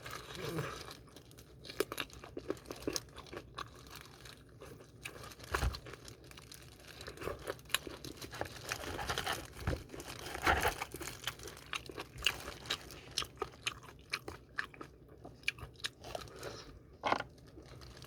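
Close-up chewing of crunchy fried chicken: irregular crisp crunches from the coating with wet chewing between them.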